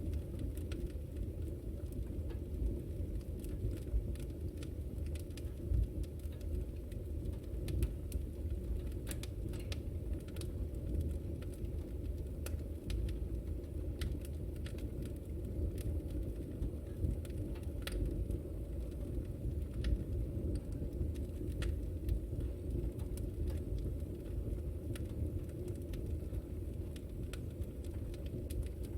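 Wood fire in a fireplace crackling: frequent sharp pops and snaps at irregular moments over a steady low rumble.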